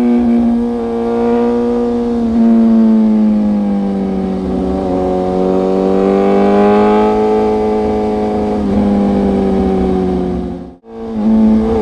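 BMW S1000RR inline-four engine running at steady high revs, its pitch wavering gently up and down. The sound cuts out briefly near the end, then comes back.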